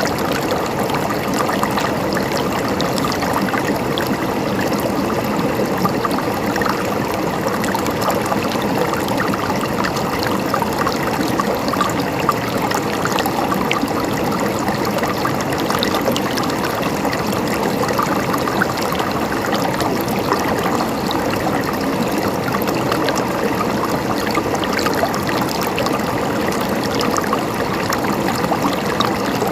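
A river flowing: a steady rush of running water with fine trickling and splashing.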